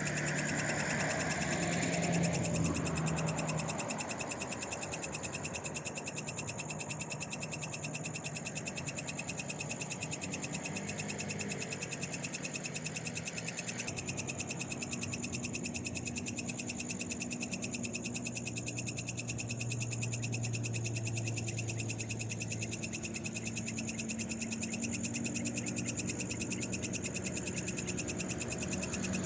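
Night chorus of frogs calling over a steady high-pitched drone of night insects. A passing vehicle fades out in the first few seconds.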